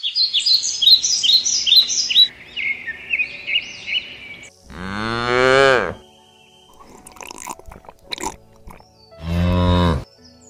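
A cow mooing twice, each moo about a second long, rising and then falling in pitch. Before the moos, a bird chirps quickly, about three short calls a second.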